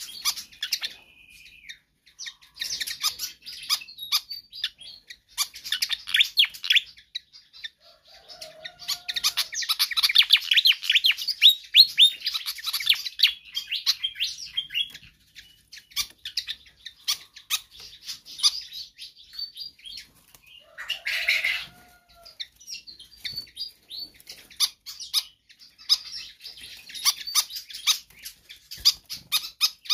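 Fantail (sikatan kipas) singing vigorously and without let-up: bursts of rapid, high chirps and trilled notes, busiest and loudest from about nine to thirteen seconds in.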